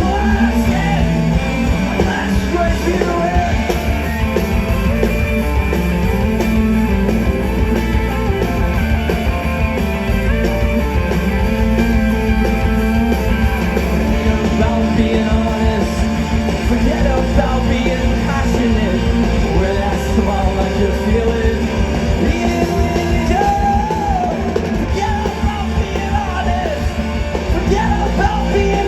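Live rock band playing loud distorted guitars, bass and drums, with a voice singing or yelling over them.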